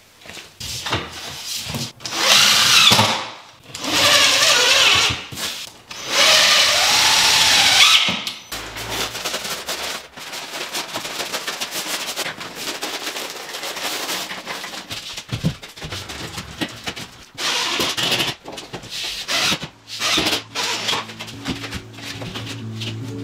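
Power drill running in three bursts, its motor whine rising and falling, followed by a long stretch of rapid clicking and knocking from the work. Music fades in near the end.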